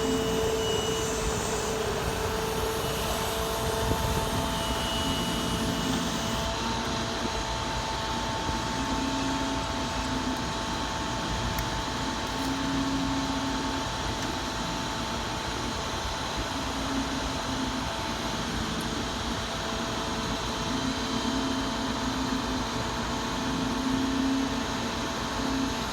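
Grapple saw truck's engine and Effer crane hydraulics running steadily, a constant drone with a few high whining tones and a lower hum that swells and drops away every few seconds.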